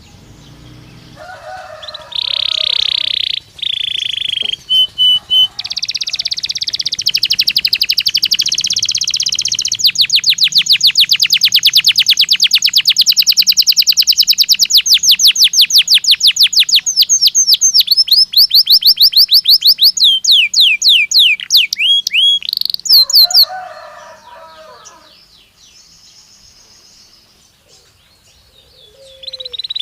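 Belgian canary singing: a long song of chirps and fast, rolling trills of rapidly repeated notes, closing with slower falling notes. The song pauses for several seconds near the end, then starts again.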